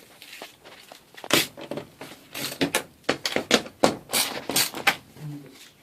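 Irregular knocks, clacks and rattles of garage door parts being handled and fitted: a quiet first second, then a quick run of sharp strikes, the loudest about a second and a half in and again just before the end.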